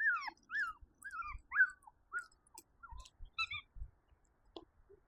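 Young puppy yelping in short, high, rising-and-falling yips, about two a second, fading out after about two seconds, followed by a few faint scattered knocks.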